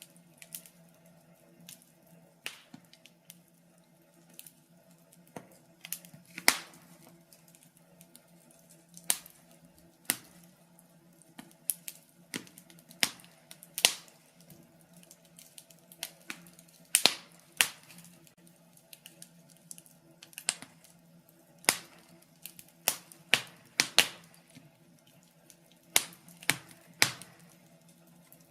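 Wood fire burning in a fireplace, crackling with irregular sharp pops and snaps, a few much louder than the rest, over a faint steady low hum.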